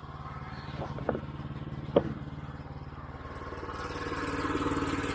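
The 9.5 hp engine of a Woodland Mills HM122 band sawmill running steadily between cuts, with a few short knocks about one and two seconds in. Its sound grows gradually louder over the last couple of seconds.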